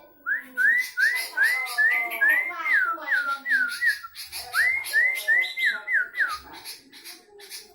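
Sooty-headed bulbul (kutilang) singing. It gives two runs of quick, clear whistled notes that rise and fall, with a short break about four seconds in, over high, rapid chirping throughout.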